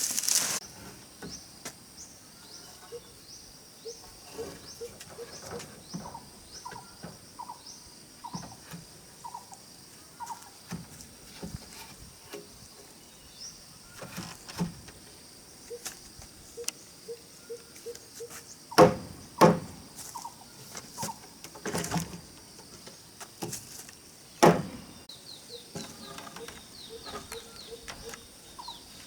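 Four sharp knocks, two close together and two more a few seconds apart, over many faint short chirps and a steady high hum.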